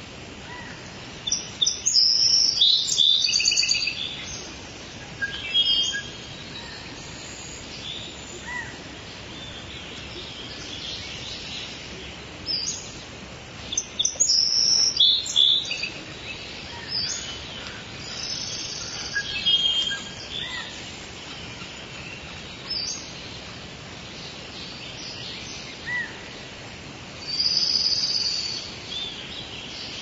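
Several wild birds calling over a steady background hiss of forest ambience: bursts of high chirps and trills come every few seconds, busiest in the first few seconds and again near the middle and end.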